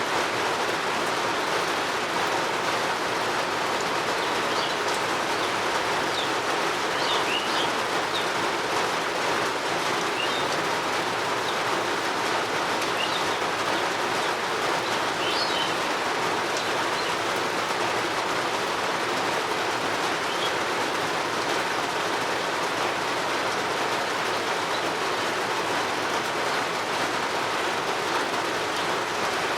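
Steady rain falling, an even, unbroken hiss. Short bird chirps come and go over it, mostly in the first two-thirds.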